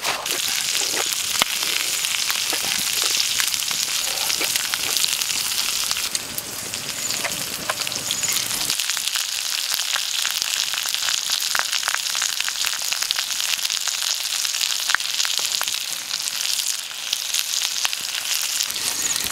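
Pig offal sizzling steadily on a hot stone slab over a wood fire, a continuous high hiss with many small pops and crackles.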